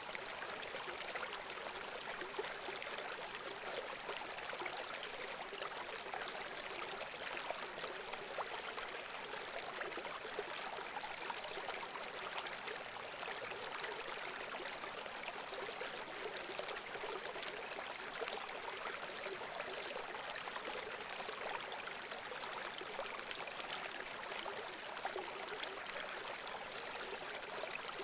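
Running water flowing steadily, an even rushing sound with no low rumble.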